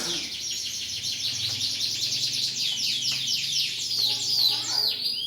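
Domestic canaries chirping and singing, many rapid high trills overlapping without a break.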